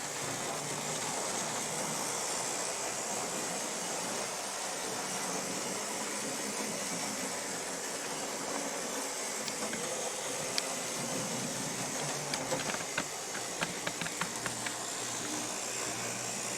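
HO scale model locomotive running along the track, a steady whirring hiss, with a run of light sharp clicks about two-thirds of the way through.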